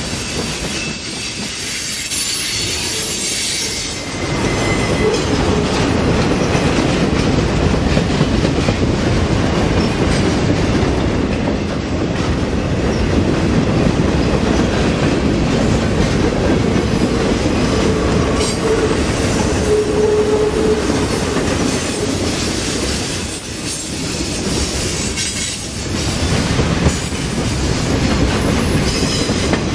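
Freight cars of a manifest train rolling past close by: a steady, loud rumble of steel wheels on rail, with a brief squealing tone about eighteen to twenty-one seconds in.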